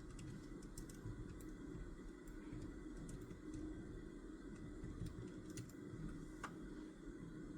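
Faint, scattered clicks of keys being pressed, one or two a second, over a steady low room hum.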